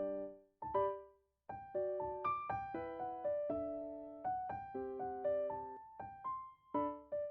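Background piano music: a gentle melody of separate struck notes, a brief pause about a second in, then flowing chords.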